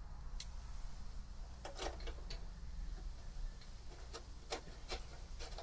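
Light, scattered clicks and taps, about eight in all, as motorcycle parts are fitted back together by hand, over a steady low hum.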